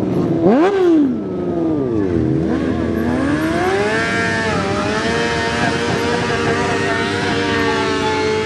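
Motorcycle engine revving: a quick rise and fall in pitch about half a second in, then a climb that levels off and is held at a steady high pitch from about four seconds on.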